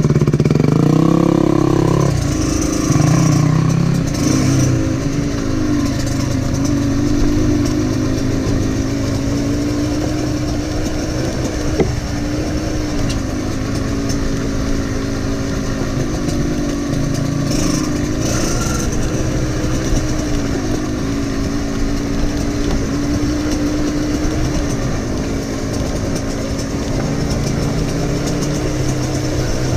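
Dirt bike engine revving as it pulls away, its pitch rising sharply over the first two seconds, then running at a steady, gently wavering pitch with small throttle changes as it rides along.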